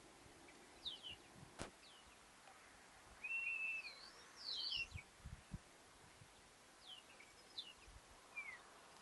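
Small birds chirping in short, high, falling calls, with one longer held note about three seconds in. A sharp click comes about a second and a half in, and a few dull low thumps come around five seconds.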